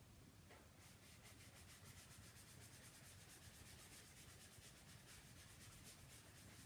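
Near silence: room tone with a faint, rapid, rhythmic scratching or rubbing, about five or six strokes a second, starting about a second in.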